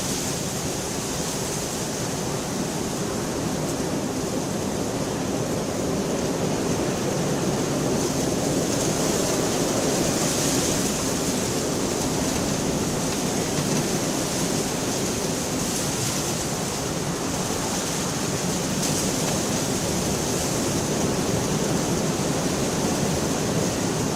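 Steady rain, a dense, even hiss of falling water on a window.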